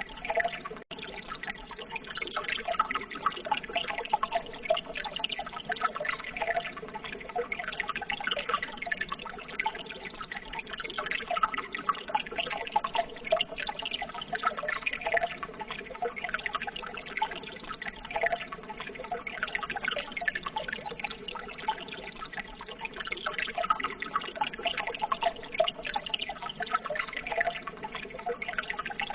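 Running water trickling and burbling steadily, with many small irregular splashes and drips.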